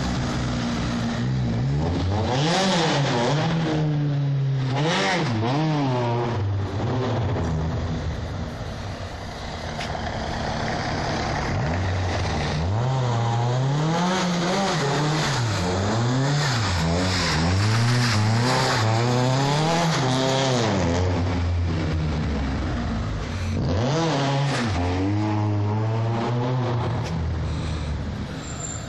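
Fiat 125p with a 1.4-litre Rover engine revving hard, its engine note rising and falling over and over as the car is thrown around.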